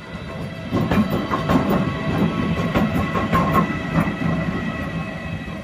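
A train moving through a railway station, its wheels clattering over rail joints and points with a steady mechanical hum underneath. It grows loud about a second in.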